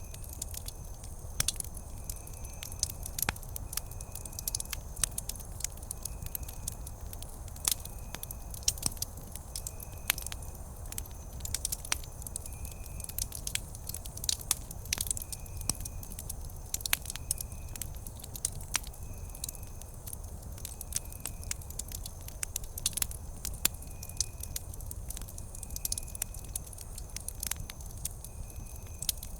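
Wood campfire crackling steadily, with frequent sharp snaps over a low rumble of the flames. A faint short tone repeats about once a second behind it.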